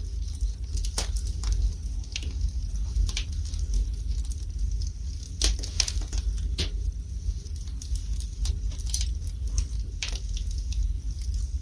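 Wood fire burning in a fireplace: irregular crackles and sharp pops, some close together and some a second or more apart, over a steady low rumble.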